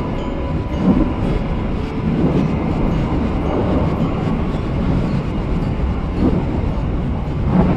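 KA Serayu passenger train running along the track: a steady low rumble of wheels on rail with occasional knocks.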